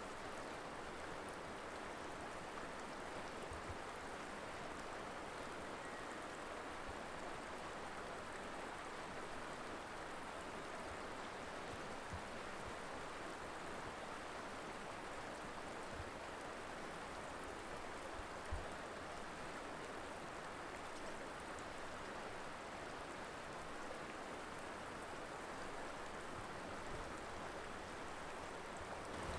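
Colorado River flowing over rocks: steady rushing water, with a few faint low thuds.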